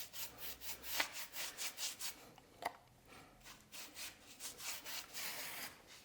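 Faint, quick rubbing strokes, about three a second, as wax is worked over the rough surface of travertine decorative plaster.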